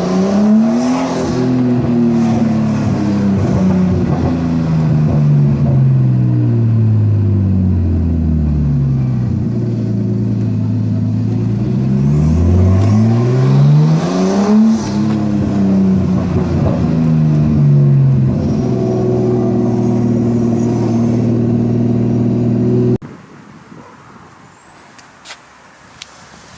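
Nissan Skyline R33's straight-six engine through a straight-pipe exhaust with the rear muffler deleted: revs rise quickly twice and fall away slowly over several seconds each time, then it holds a steady low pitch before stopping abruptly about 23 seconds in.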